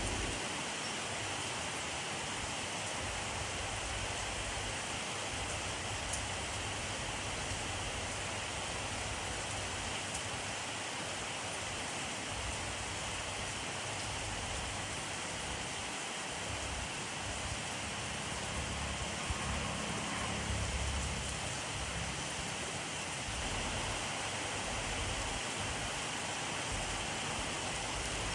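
Steady rainfall, an even hiss of drops on surfaces, with a brief low rumble swelling about two-thirds of the way through.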